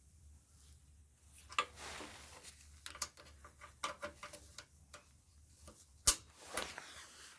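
Scattered light clicks and knocks of dryer parts and fasteners being handled and secured during reassembly, the loudest a sharp click about six seconds in.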